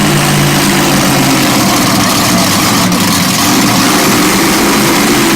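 Monster truck engine running loud and steady at idle.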